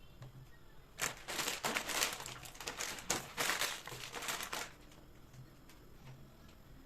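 Packaging crinkling and rustling as it is handled, a dense crackly run of about three and a half seconds that starts about a second in.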